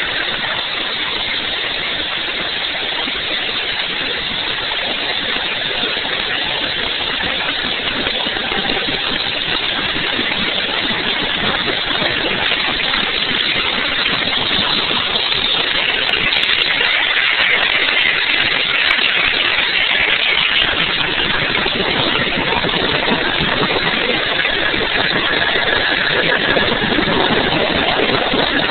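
Bell 205 helicopter's single turboshaft engine running during start-up, a dense steady turbine noise that slowly grows louder, with a high whine coming up about halfway through.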